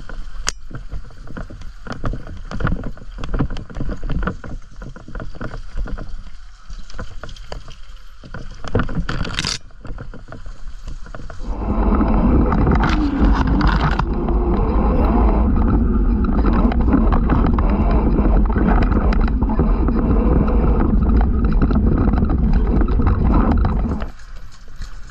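Riding noise from a camera carried on an off-road bike on a muddy trail: uneven knocking and rattling over bumps, then from about twelve seconds in a loud steady rush with heavy rumble that drops away near the end.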